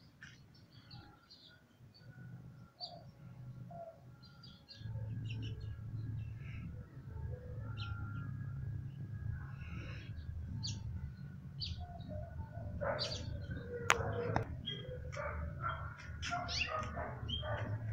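Small birds chirping in short, scattered calls that grow busier near the end, over a low steady rumble that comes in about five seconds in.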